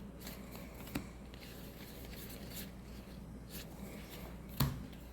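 Faint rustling and light flicks of Magic: The Gathering trading cards being handled and flipped through one by one, with a sharp tick about a second in and a soft thump near the end.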